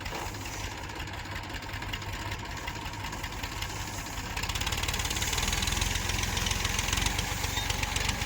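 Tractor engine running with a fast, even knocking beat, getting louder about four seconds in.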